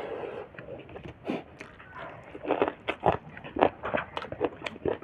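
Close-up eating sounds: chewing and biting on snail and pork meat, with a series of short crunching and wet mouth clicks.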